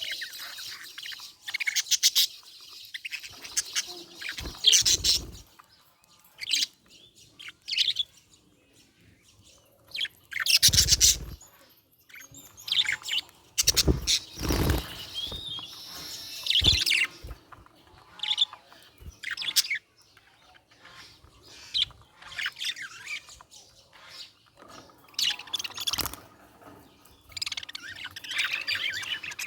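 Budgerigar chirping and chattering in quick, irregular bursts of high twittering with short pauses between, mixed with a few louder knocks.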